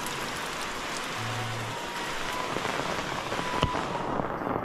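Heavy rain falling steadily, with scattered drops ticking close by and one sharper tap about three and a half seconds in.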